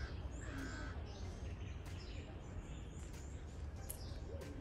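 Many small birds chirping and twittering, with one harsh caw about half a second in, over a steady low outdoor rumble.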